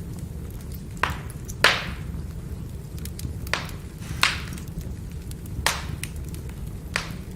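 Firewood burning with a steady low rumble, broken by about six sharp crackling pops, the loudest about a second and a half in.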